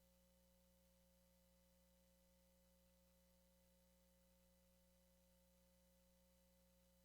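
Near silence: a faint, unchanging hum of several steady tones.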